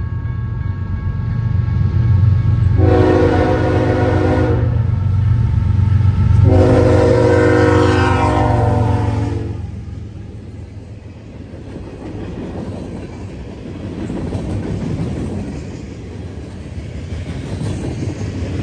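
Freight train's diesel locomotives passing close by. The horn sounds two long blasts, about three and six seconds in, over a heavy engine rumble. From about ten seconds the locomotives have gone by and the freight cars roll past with a lighter rumble of wheels on rail.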